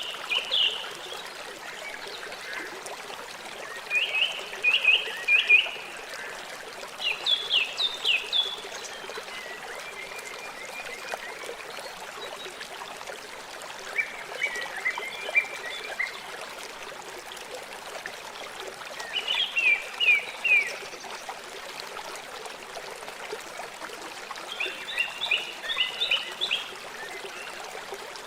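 River water flowing steadily. Over it a bird sings short phrases of quick, falling notes, repeated every few seconds and louder than the water.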